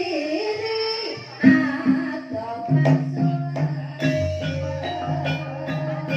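Banyumasan gending played live in the ebeg style. A voice sings a bending melodic phrase, then struck tuned percussion takes over about a second and a half in, with ringing notes at a quick, steady pulse and a low drum stroke partway through.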